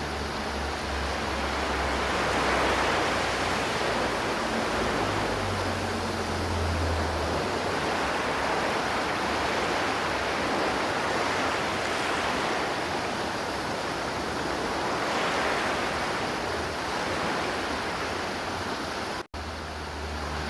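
Steady rush of a flowing river, swelling and easing slightly, with a split-second dropout to silence near the end.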